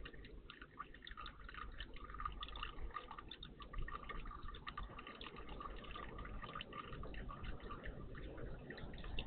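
Small birds bathing in a shallow bird bath: a quick, irregular patter of little splashes and drips as they flick water with their wings.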